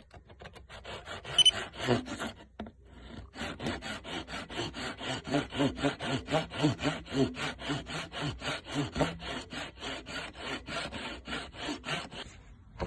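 Rapid, rhythmic back-and-forth rubbing strokes, several a second, pausing briefly about two and a half seconds in.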